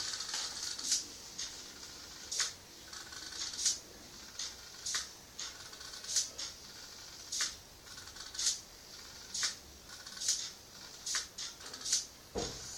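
Light, sharp clicks at an irregular pace, roughly one a second, over a faint steady hiss.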